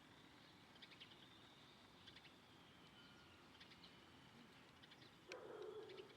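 Birds chirping faintly, with short high chirps scattered throughout over a faint steady high tone. Near the end comes a lower, louder note lasting about a second.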